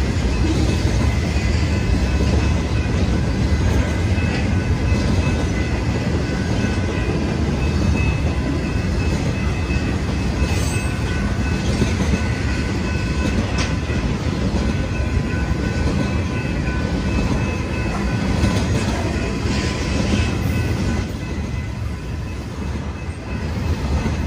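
BNSF freight train rolling past, its cars rumbling and clacking over the rails, with faint steady high ringing tones above the rumble.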